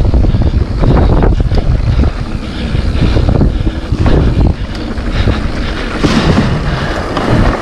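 Mountain bike riding down a trail, heard through a ride-along camera: heavy wind buffeting on the microphone over the rumble of the tyres, with irregular knocks and rattles as the bike goes over roots and bumps.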